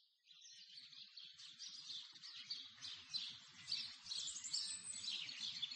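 Birdsong fading in: many quick chirps and trills of small birds, growing steadily louder.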